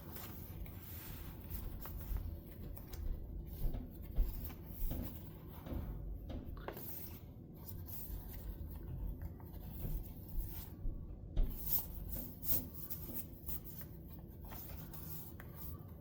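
Paper rustling and rubbing as the pages, tags and pockets of a handmade paper journal are handled and turned, with a few soft taps scattered through.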